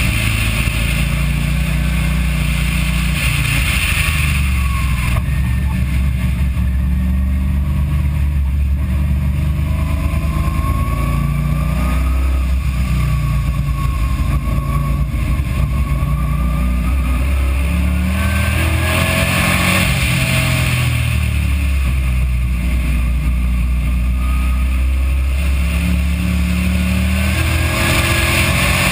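Race car engine on a track lap, its revs dropping off through braking and a downshift and then climbing again under full acceleration, over steady road and wind noise.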